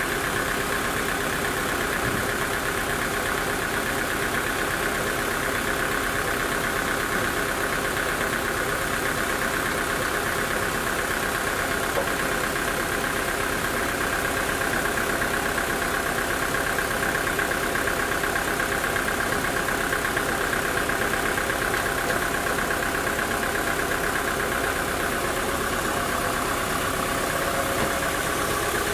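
Sawmill machinery running steadily, a constant engine-driven drone with a steady high whine and no breaks.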